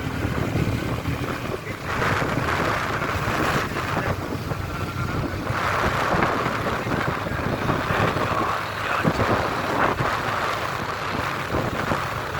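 Wind rushing and buffeting over the microphone, over the steady rumble of a moving vehicle.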